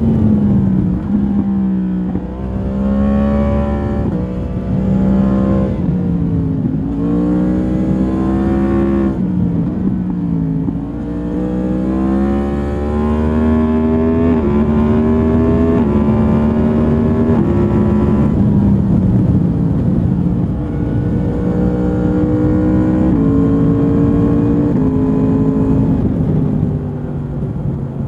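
Stock 2022 Yamaha MT-10's crossplane inline-four through its standard exhaust, heard from the rider's seat under way: the engine note climbs repeatedly under throttle and drops back at each gear change or roll-off, then holds steadier with small steps in pitch in the second half.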